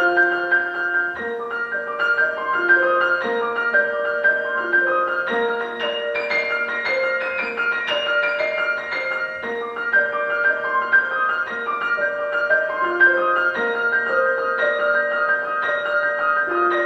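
Solo piano music: a melody of struck notes over a moving accompaniment, played steadily at a moderate pace.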